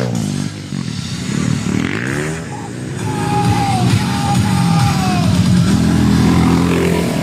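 Motocross motorcycle engine revving up and back down, then running at a fairly steady speed, with music playing alongside.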